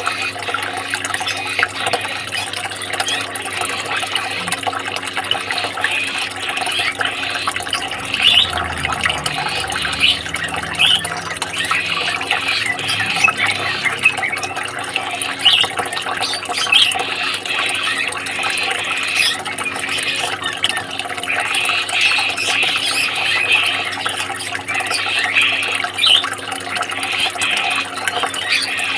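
Steady running water, with many short, high chirps of small birds scattered over it.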